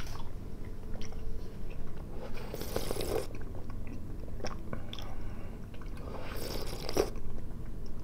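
Close-up chewing and crunching of a nougat, peanut and caramel candy, with two short noisy slurps, about two and a half seconds in and just before seven seconds, as hot tea is sipped from a glass mug.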